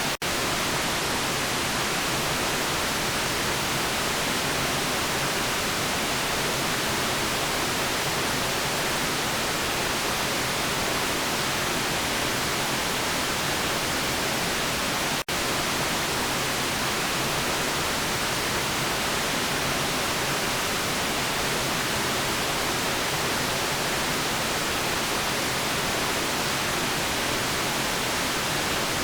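Steady white-noise hiss, even and unchanging, with a momentary dropout about halfway through.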